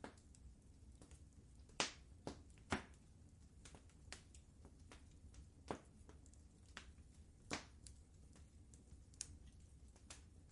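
Wood fire in a fireplace crackling: irregular sharp pops, the loudest about two seconds in, over a faint low rumble.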